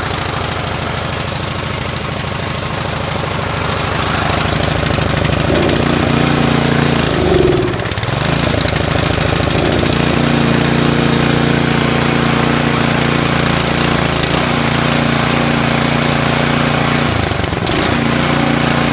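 Craftsman snowblower's single-cylinder gas engine running on choke just after a cold start, warming up. Its pitch dips and recovers about eight seconds in, and briefly twice more near the end.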